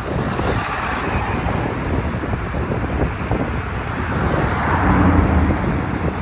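Traffic going by on a multi-lane highway, with wind buffeting the microphone. One vehicle passes close, its engine hum swelling and then fading, loudest about five seconds in.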